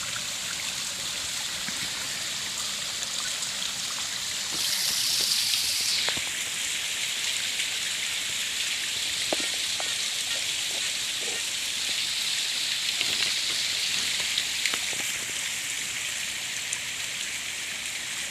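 Shallow stream water running steadily over bedrock below a waterfall. A louder, hissier rush of water lasts about a second and a half starting around four and a half seconds in, and a few faint clicks come later.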